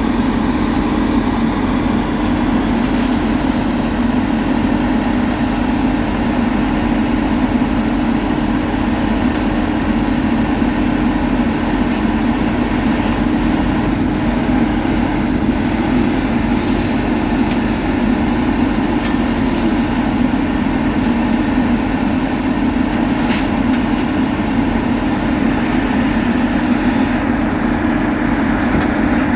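Heavy road-construction machinery engine running steadily under load, with a constant low hum.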